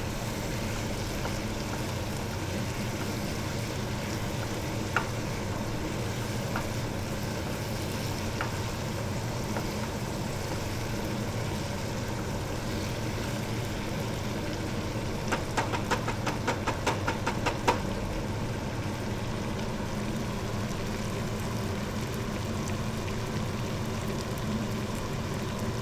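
Chicken liver and gizzard sizzling as they fry in a pan, a steady crackle. About two-thirds of the way through there is a quick run of about a dozen clicks, as of a spoon knocking against the pan.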